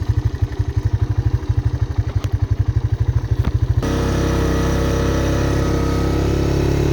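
Single-cylinder four-stroke engine of a 1985 Honda ATC Big Red 250ES three-wheeler idling with an even low thump, about ten beats a second. About four seconds in it abruptly changes to a steady, fuller, higher-pitched running.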